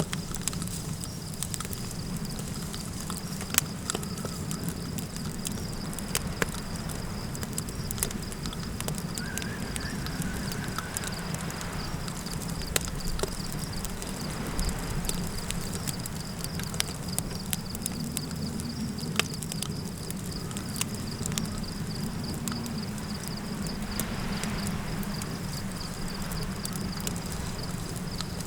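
Campfire crackling, with irregular sharp pops, over a steady low rumble of wind. A constant high trill of insects runs underneath.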